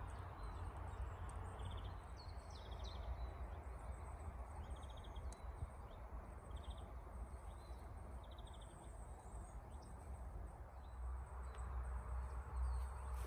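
A small bird repeating a short trilled call about once a second, over a steady outdoor hiss and a low rumble.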